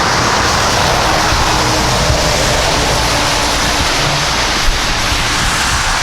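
Jet airliner engines running, a steady rushing noise with a faint low hum through it.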